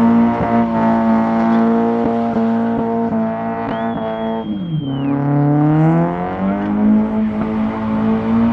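A car engine held at high revs while drifting, the revs dipping briefly about halfway through and climbing back. A short high-pitched tyre squeal sounds across the dip.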